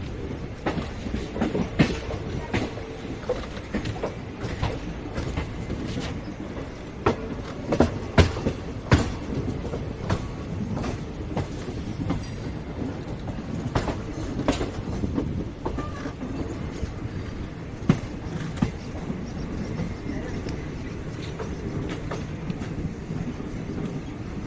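Passenger train rolling through the station: a steady rumble of coaches with irregular sharp clacks of wheels passing over rail joints.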